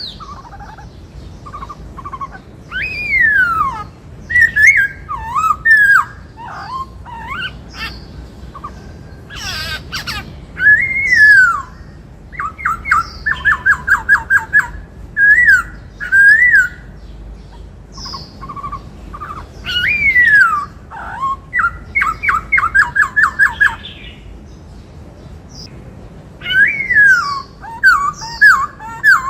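White-cheeked laughingthrush singing: loud whistled phrases of sliding notes and quick runs of short repeated notes, in bursts separated by pauses of a few seconds.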